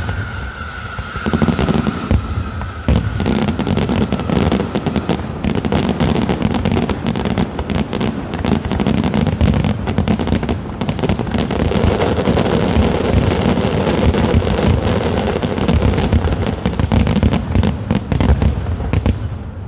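Fireworks display in a dense, continuous barrage of bangs and crackling, with a high whistle slowly sliding down in pitch over the first few seconds.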